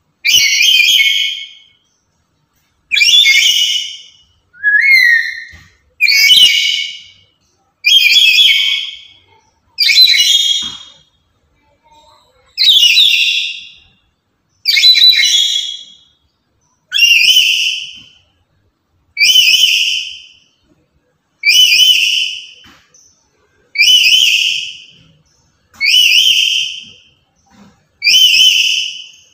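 Black-capped lory calling loudly over and over: shrill calls about one every two seconds, each starting sharply and fading out within about a second.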